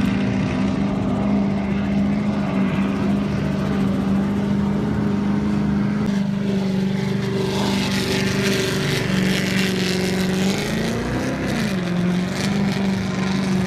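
Offshore racing powerboat engines running at speed, a steady drone, which swells with a rushing hiss about eight seconds in, then the pitch swoops up and back down near the end as a boat goes by.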